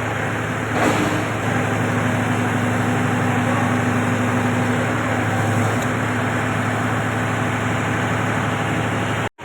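Mahindra 265 DI XP Plus tractor's diesel engine running steadily, with a brief louder surge about a second in and a change in the engine note near six seconds.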